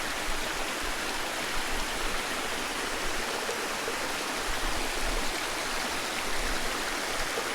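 Steady rush of running water, an even hiss with no breaks or surges.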